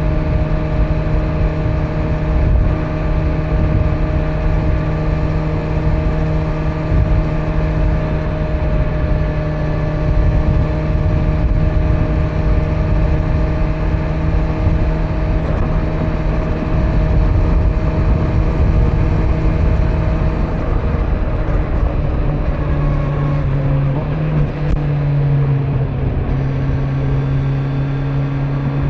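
Kawasaki Z900's inline-four engine running through its stock exhaust at a steady cruise, over heavy wind and road rumble picked up on the rider's backpack. Near the end the revs drop and settle at a lower, steady note as the bike eases off.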